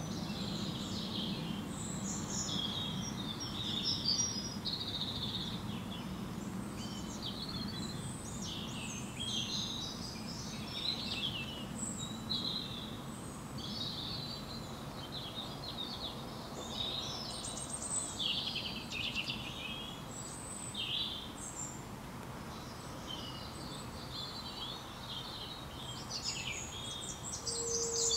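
Birds chirping and calling continuously, many short high chirps and trills overlapping, over a low steady background noise.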